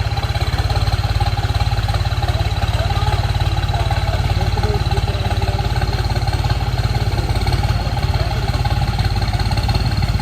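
Tractor diesel engine running steadily with a fast, even low chug.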